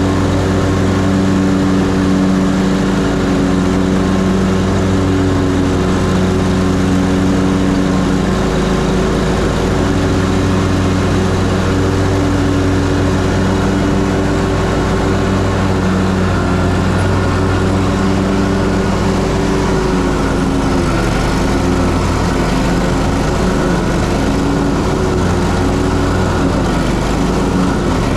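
Ferris Z3X zero-turn mower's 37 hp engine running steadily while mowing, its note wavering slightly in the second half.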